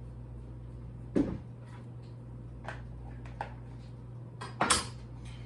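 Kitchen handling noises: two sharp knocks, about a second in and again near the end, like a cupboard or container being shut or set down, with a few lighter clicks between them over a steady low hum.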